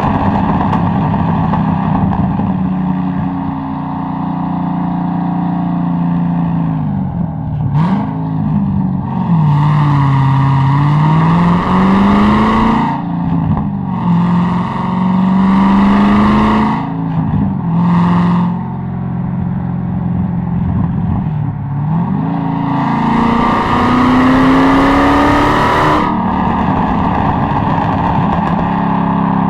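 Corvette C6 Z06's 7.0-litre LS7 V8 being driven hard, with about four bursts of acceleration: the engine note climbs through each and drops off between them.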